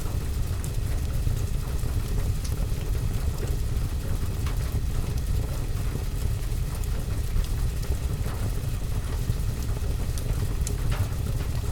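Wood fire crackling with scattered sharp pops over a steady low rumble of rain.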